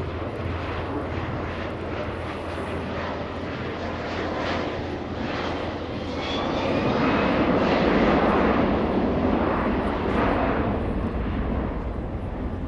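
Jet engines of the NATO Airbus A330 MRTT tanker and its escorting F-16 fighters flying past in formation. The noise swells to its loudest about seven to ten seconds in, then eases off.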